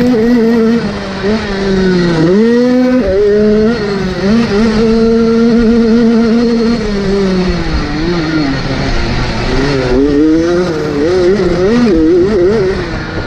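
Motocross bike engine revving hard, its pitch held high, then dropping sharply and climbing again about two seconds in, then rising and falling repeatedly as the throttle is worked on and off.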